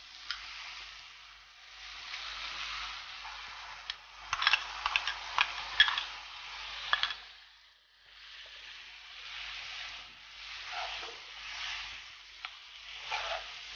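Tomato-onion masala sizzling in a nonstick kadai as boiled sweet corn with its starchy cooking water is added and stirred in, with a spoon clicking and scraping against the pan, most busily in the middle. The sound briefly drops out about halfway.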